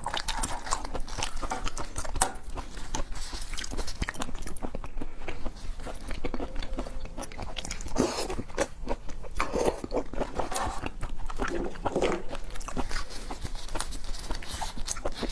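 Close-miked chewing and biting of seafood: irregular wet mouth clicks, smacks and crunches.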